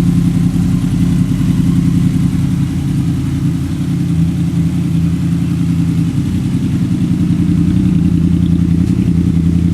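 Honda VFR800 V-TEC's V4 engine running steadily through an aftermarket Delkevic mini 200 mm round exhaust silencer, with no revving.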